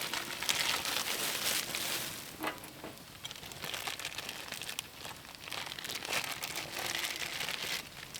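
Plastic packaging crinkling and rustling in bursts of about a second as it is handled, with a few sharp crackles.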